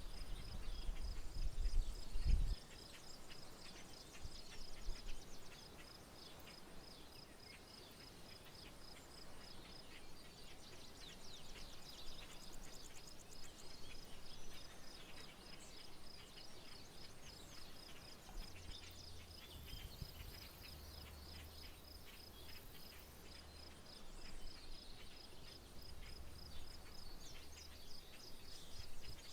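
Rural outdoor ambience: an insect trills steadily throughout, a high pulsing of about five pulses a second, while birds chirp here and there, more often around a third and near the end. A low rumble is loudest in the first two and a half seconds and then stops suddenly.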